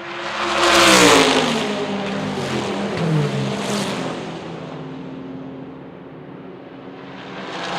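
GT race cars going by at speed at full throttle. The loudest passes about a second in, its engine note falling in pitch as it goes by, two more follow a couple of seconds later, and another closes in near the end.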